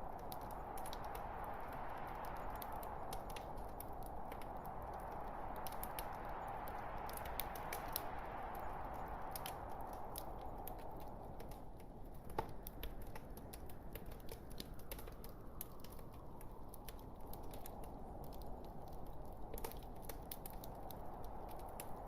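Wood fire burning in a fireplace: logs crackling with frequent small pops over a soft steady rush that swells and eases, with one sharper pop about halfway through.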